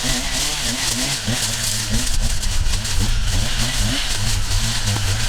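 Small petrol engine of outdoor power equipment running steadily, its pitch rising and falling a few times a second.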